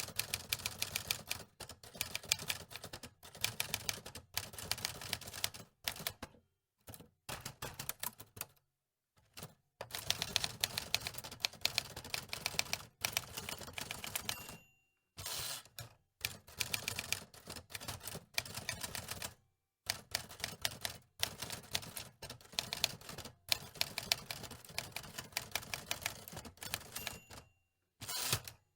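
Antique typewriter keys clacking in quick, uneven runs of typing, broken by several short silent pauses.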